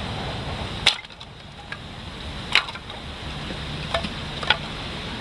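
Four sharp clinks and knocks, as of hard objects being handled and set down, over a steady background hiss.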